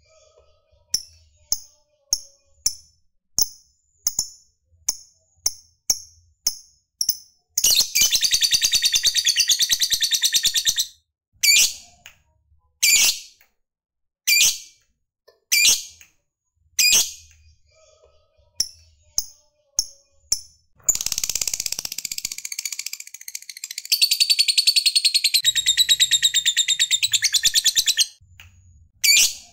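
Lovebird calls: a run of short, sharp chirps repeated about once a second, broken twice by a long, rapid, rattling chatter (ngekek), the second one lasting about seven seconds.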